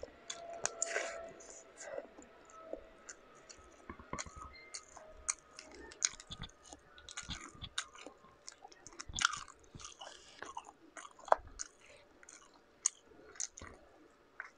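Close-miked chewing and wet mouth sounds of a person eating rice and shrimp, with irregular sharp clicks and crackles as shrimp shells are peeled by hand.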